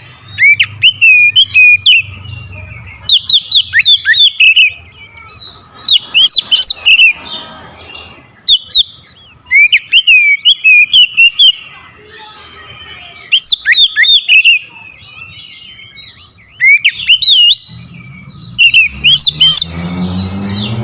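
Oriental magpie-robin (kacer) singing loudly: rapid phrases of sweeping, whistled notes in repeated bursts with short pauses between them. A low hum builds near the end.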